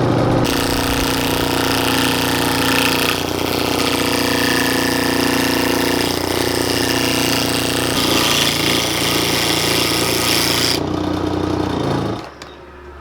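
Wood lathe running while a gouge takes a roughing cut on an out-of-round cedar blank, a loud, rough, chattering cut as the tool bites the uneven wood. The cutting stops near the end, leaving a lower steady hum.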